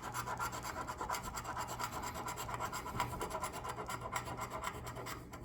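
Rapid scratching of a $5 Cash Plus scratch-off lottery ticket, short fast strokes scraping off the coating to reveal the numbers.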